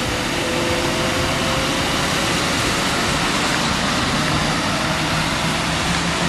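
Steady vehicle noise: an engine and rushing air or road noise running evenly, with no breaks.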